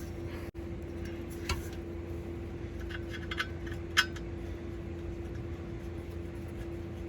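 A few light metallic clinks of a socket and wrench against bolts as they are run in, spread through the middle, the sharpest about four seconds in, over a steady low hum.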